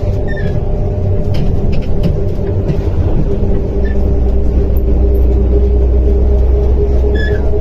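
Simulated MAZ 105 city bus's diesel engine running steadily: a low rumble under a constant hum, the rumble growing heavier about halfway through.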